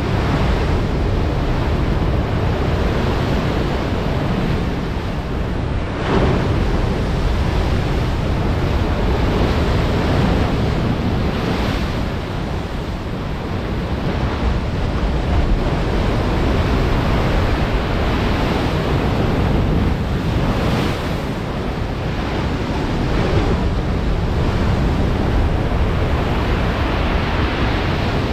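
Stormy sea surf: waves breaking heavily, with swells of louder crashes every several seconds, and wind buffeting the microphone.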